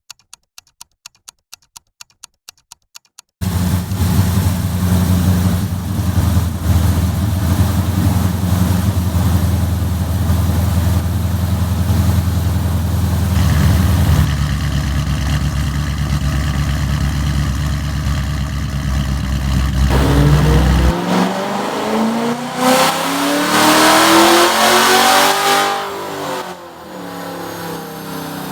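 2015 Dodge Charger R/T 5.7L Hemi V8 with an aftermarket Comp Cams camshaft and exhaust, starting about three seconds in after a run of faint regular clicks, then idling. From about twenty seconds in it is revved up and down several times.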